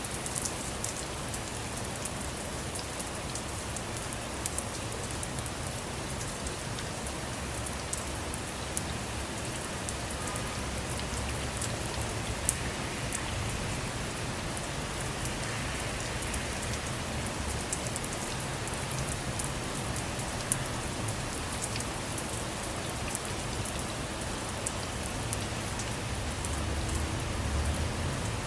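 Steady rain falling on a car, with individual drops ticking sharply over a continuous hiss. A low rumble swells near the end.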